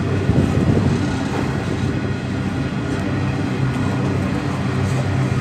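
Electric passenger train running close by: a steady rumble with a low hum underneath.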